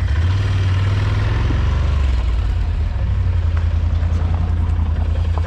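ATV engine running at low revs, settling into a steady idle about two seconds in.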